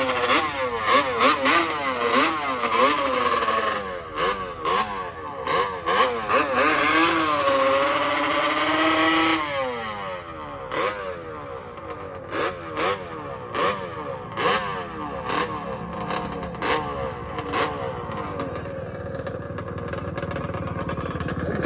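Dirt bike engines revving up and down through the gears, more than one bike overlapping, with the pitch held high for a couple of seconds near the middle. Sharp cracks punctuate the engine noise throughout.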